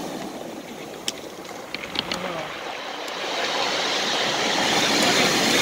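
Sea waves washing on the shore, easing off and then swelling again. A few short sharp clicks come about one to two seconds in.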